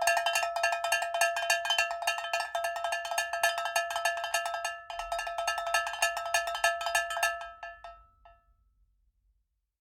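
Rapid, even run of strikes on a pitched metal percussion instrument, each ringing at the same bright pitch. The run breaks off briefly near the middle, starts again, then thins out to a few last strikes and stops about eight seconds in.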